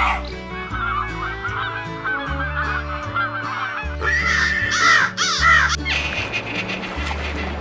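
Animal calls over background music: a chorus of many short, wavering calls, then several louder, longer calls between about four and six seconds in.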